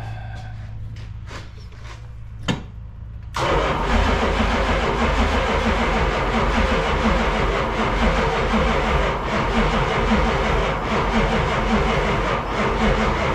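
The starter cranks the 1973 Road Runner's 440 V8 for about ten seconds, with an even pulsing, and the engine does not catch. It starts suddenly about three seconds in and stops abruptly near the end. The owner puts it down to a weak battery and is not sure the engine is getting spark.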